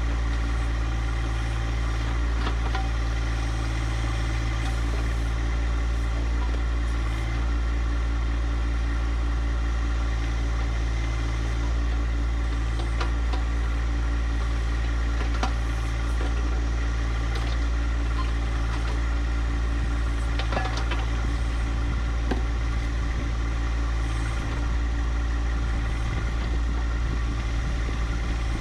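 John Deere 1025R compact tractor's three-cylinder diesel engine running at a steady speed, with a few light knocks scattered through.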